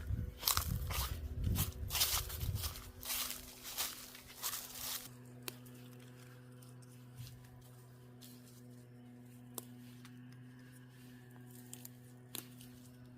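Scratchy rustling and tearing sounds for about five seconds, then a faint steady hum broken by a few single clicks.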